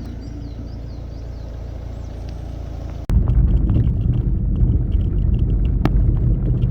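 A vehicle driving, a steady low road-and-engine rumble with faint bird chirps in the first half. About three seconds in it jumps abruptly to a much louder, rougher rumble with scattered rattles.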